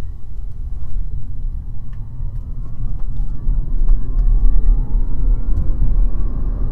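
Tesla Cybertruck driving, heard from inside the cabin: a deep, steady rumble of road and wind noise, with a faint whine rising slowly in pitch as it gathers speed. Wind-noise door seal strips are fitted, and the owner doesn't think they made it quieter.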